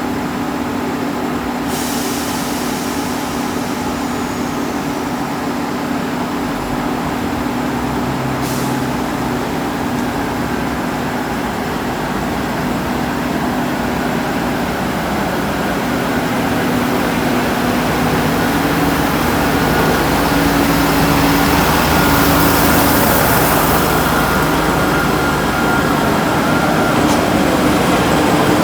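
Diesel train engine running steadily close by, growing louder over the second half, with two short hisses of released air about two and eight seconds in.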